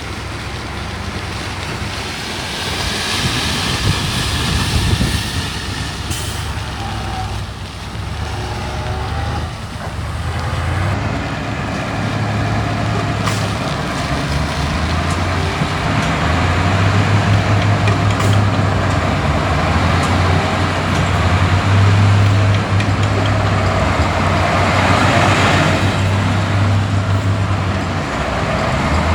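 Diesel engine of heavy earthmoving equipment running under load, growing louder and heavier about halfway through, with metallic squeals and clanks over it.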